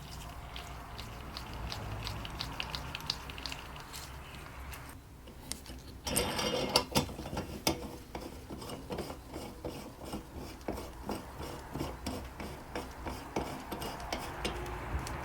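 Small metal parts clicking, scraping and rubbing as they are handled and worked, with a short pause about five seconds in, then denser clicking.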